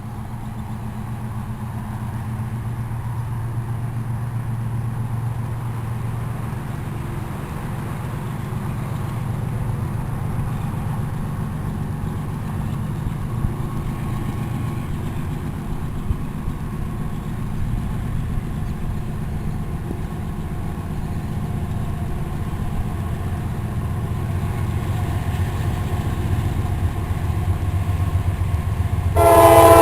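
Diesel locomotives of an approaching freight train, a steady low engine drone slowly growing louder. Near the end, the lead GE ES40DC's Nathan K5LA five-chime air horn starts to blow loudly.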